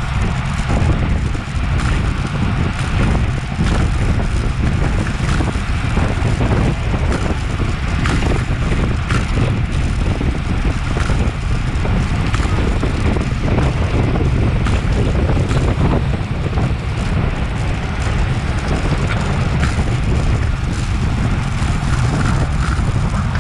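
Steady wind rush buffeting an action camera's microphone on a road bike ridden at race speed, a heavy low rumble with hiss above it.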